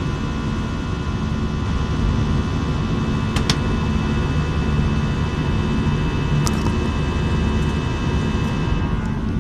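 Jet airliner cabin noise: a steady engine rumble and airflow roar with a set of steady whining tones above it. A couple of light clicks come about three and a half seconds in, and another near six and a half seconds.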